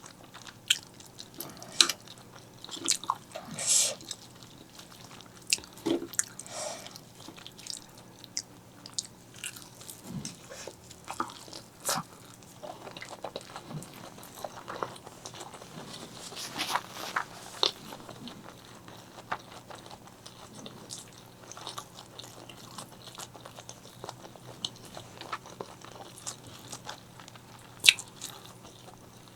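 Close-miked eating of black bean noodles and fried eggs: irregular chewing and biting, with many short clicks and one sharp louder click near the end.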